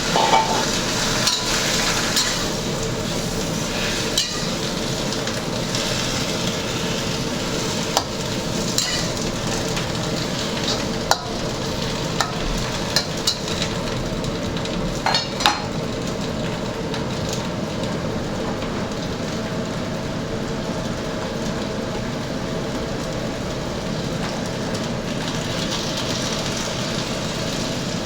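Food sizzling and frying in a hot pan as it is stirred, with a spatula clicking sharply against the pan now and then, mostly in the first half. A steady hum runs underneath.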